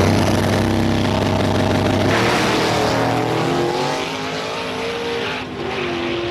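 Car engine running loudly, its pitch shifting up and down in steps, with a rush of noise a couple of seconds in.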